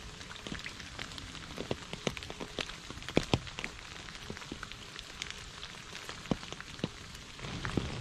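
Rain falling on puddles and wet leaves: a steady hiss of rainfall with many separate drops ticking and plopping at irregular moments, two of the loudest close together about three seconds in.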